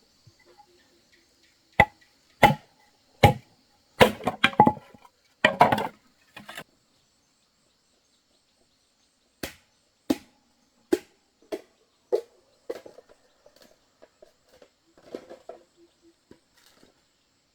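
Irregular sharp blows of a tool striking wood, about a dozen strokes. The loudest come in the first six seconds, some in quick clusters, then lighter strikes after a pause.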